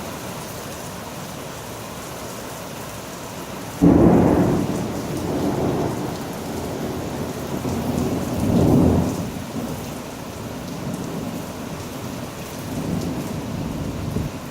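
Heavy thunderstorm rain pouring steadily, then about four seconds in a sudden loud thunderclap from a lightning strike that rumbles on, swelling again around nine seconds before dying away.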